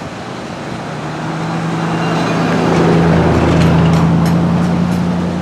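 A motor vehicle passes close by, its engine hum and tyre noise building over about three seconds and then fading.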